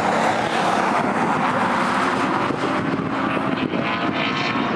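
Historic touring car racing engines running hard at speed, a loud, continuous mechanical sound.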